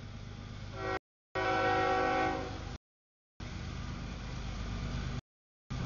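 CSX freight locomotive's horn blowing one chord about a second in, over the rumble of a double-stack container train rolling through a grade crossing. The horn fades out before the halfway point, leaving the steady rumble of the passing cars. The sound cuts out completely three times for about half a second.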